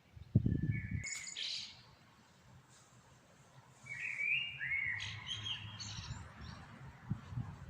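Birds chirping: a short burst of chirps about a second in, then a longer run of rising and falling chirps from about four to six seconds. A low thump about half a second in is the loudest sound, with softer low knocks near the end.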